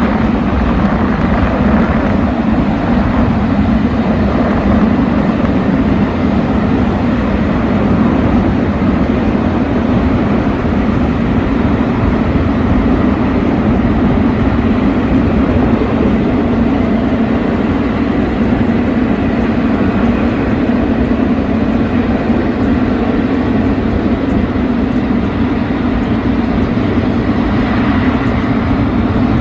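Steady engine noise, a loud continuous drone that holds level throughout.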